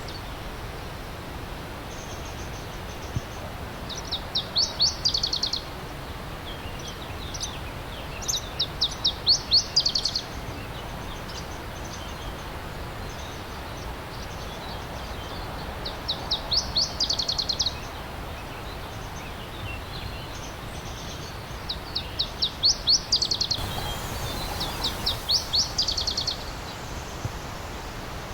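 A songbird singing a fast trill of rapid, high repeated notes, five phrases about a second and a half long, spaced a few seconds apart, over the steady rush of a stream.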